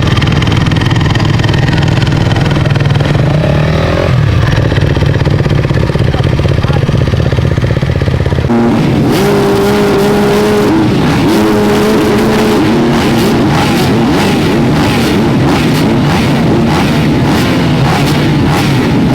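Motocross bike engines running. About eight seconds in the sound changes abruptly to bike engines revving, their pitch stepping up and down with sharp crackles.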